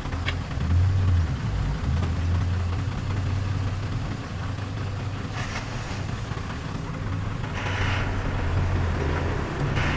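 Heavy diesel engine of earthmoving machinery running steadily at a low pitch, rising a little in loudness about a second in, with short hisses a few times in the second half.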